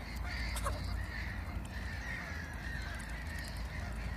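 Birds calling faintly and repeatedly in short calls over a steady low rumble, with one brief sharp noise about half a second in.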